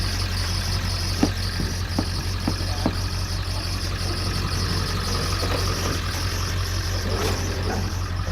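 An engine idling steadily, with four short sharp knocks in the first few seconds.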